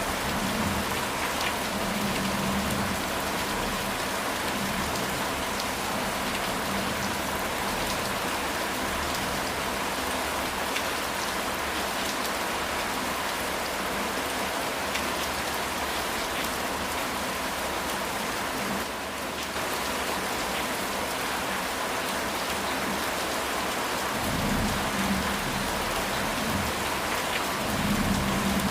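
Steady heavy rain falling on a house roof, an even hiss. Low rumbles of thunder swell near the start and twice near the end.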